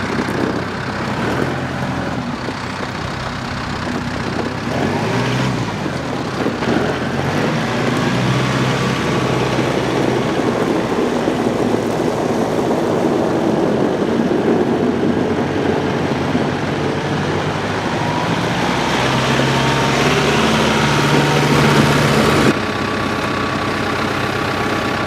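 2013 Kubota M6060's four-cylinder turbo diesel tractor engine running. Its engine note climbs about five seconds in, rises again around nineteen seconds, and drops back sharply about twenty-two seconds in.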